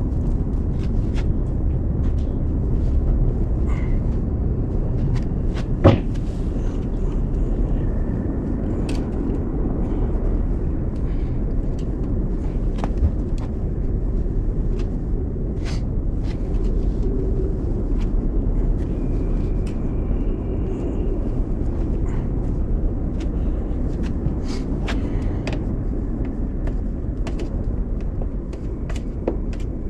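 A steady low rumble with scattered clicks and knocks, one louder knock about six seconds in.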